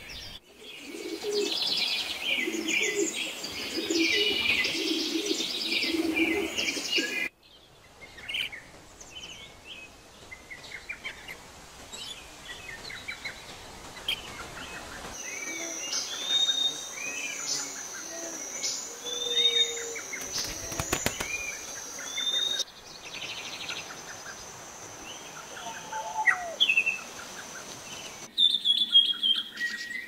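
Wild birds chirping and calling, in a run of separate recordings that change abruptly every several seconds. A loud dense chorus with a lower call underneath comes first, then scattered chirps, then arched call notes over a thin steady high tone.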